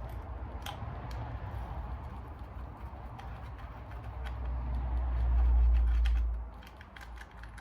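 Light clicks and taps of hand tools on the metal of a Suzuki LTR 450 cylinder head as its Allen bolts are worked loose, over a low rumble that swells about five seconds in and drops away a second later.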